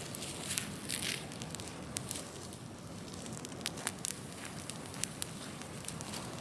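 Large open bonfire of unwanted wood and brush burning, a steady rush of flame with irregular sharp crackles and pops.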